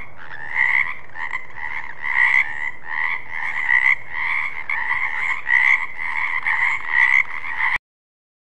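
Frogs croaking in a steady chorus, with louder croaks repeating about every half second to second. The chorus cuts off suddenly near the end.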